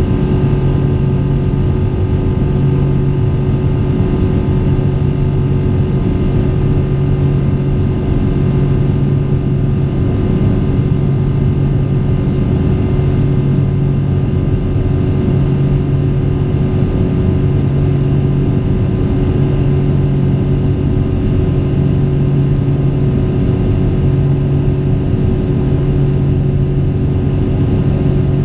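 Boeing 777-200 airliner cabin in flight: the steady, loud drone of the jet engines and airflow, with a low hum that throbs slowly every couple of seconds.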